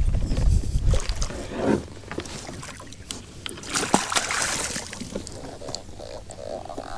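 Water splashing and sloshing with scattered knocks and clicks as a catfish is landed and handled in a small boat.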